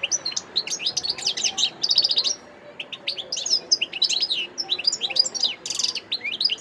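European goldfinch, wild-caught, singing a fast twittering song of rapid chattering and buzzy notes, with a brief pause about halfway through.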